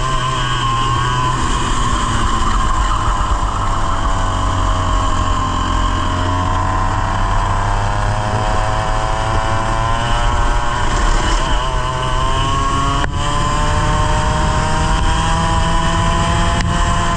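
100cc kart engine running at the driver's seat, its revs sagging and picking up again a couple of times.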